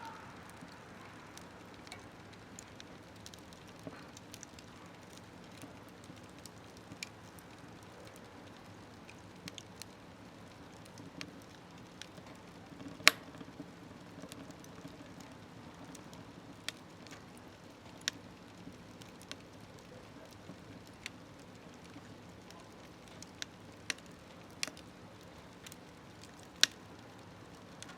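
Wood fire burning in a small smokeless wood stove: scattered sharp crackles and pops over a low, steady rush of flame, the loudest pop about halfway through.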